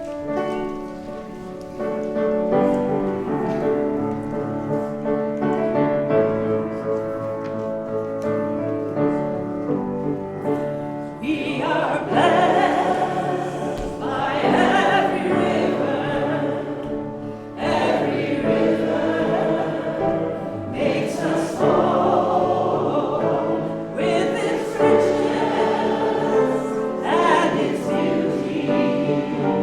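A hymn begins: an instrumental introduction of held chords for about eleven seconds, then many voices of the congregation come in singing over the accompaniment.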